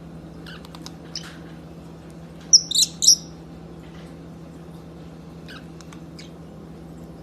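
Pet parrot chirping: a few faint short chirps, then a loud cluster of high, shrill chirps about two and a half seconds in, followed by a couple of faint ones, over a steady low hum.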